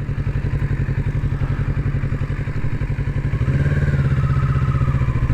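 Kawasaki Z650 parallel-twin engine running at low revs with a steady pulsing beat, picking up slightly about three and a half seconds in.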